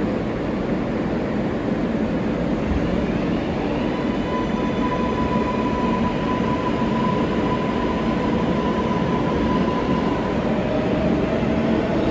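R143 subway car running, a steady rumble of wheels and car body with the electric whine of its AC traction motors over it. A higher whine holds steady through the middle, and a lower one rises near the end.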